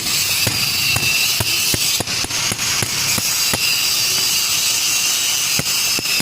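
Hand-tool or machine work on a diesel engine cylinder head: a steady high-pitched hiss with a sharp, ratchet-like click about every third to half second.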